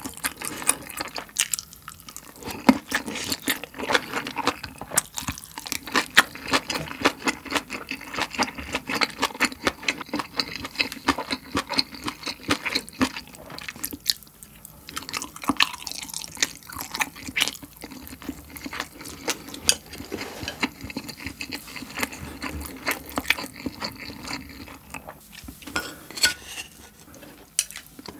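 Close-miked chewing of pan-fried Spam with kimchi and rice: a dense run of sharp mouth clicks, with brief lulls about halfway and near the end.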